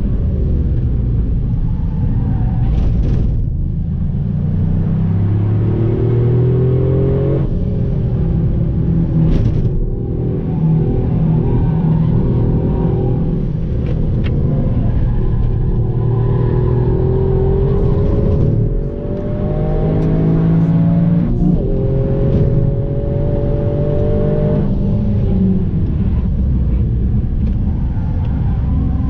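Toyota Yaris heard from inside the cabin under hard track driving: engine revs climb steeply several times and drop back at each gear change, over a constant heavy rumble of road and wind noise.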